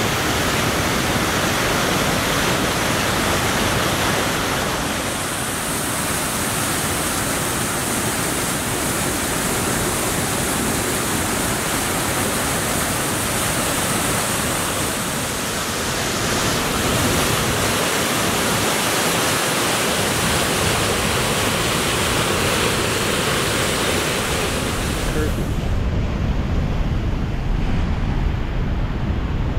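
Steady rush of the Maligne River's whitewater pouring through the canyon gorge. About 25 seconds in, the hiss drops away sharply, leaving a low rumble.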